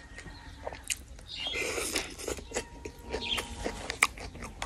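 Close, wet chewing and crunching of a mouthful of vegetables from a bamboo-shoot curry, with many small sharp mouth clicks and a louder crunchy stretch about a second and a half in.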